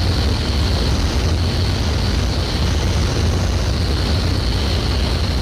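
Polikarpov I-16 fighter's radial engine and propeller running in flight, a steady drone with a strong low hum.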